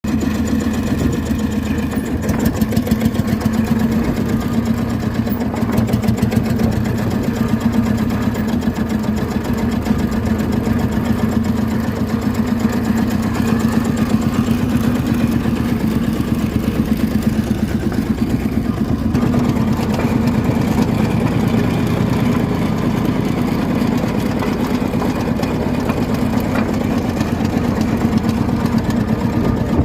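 Field Marshall tractor's single-cylinder two-stroke diesel engine idling steadily, a fast, even beat of firing strokes.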